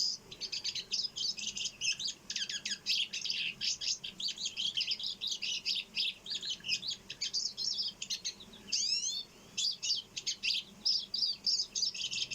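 Pine siskin song: a long, continuous run of rapid high twittering notes, with a few rising sweeping notes about nine seconds in.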